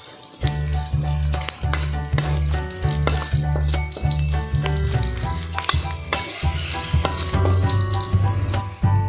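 Food sizzling as it fries in hot oil in a pan, under background music with steady held notes and a pulsing bass line.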